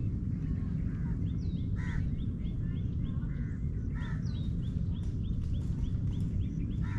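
Birds calling over a steady low rumble: one bird repeats a short high note about three times a second, and a louder harsh call comes about two and four seconds in and again near the end.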